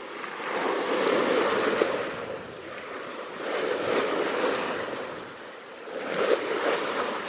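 Water washing and sloshing in slow surges that swell and fade about every two to three seconds.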